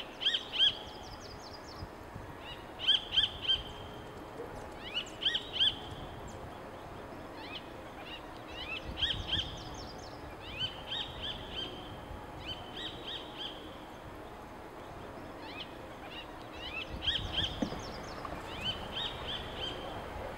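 Wild birds singing: short phrases of quick, high chirps and trills, a new phrase every second or two, over a faint steady outdoor background.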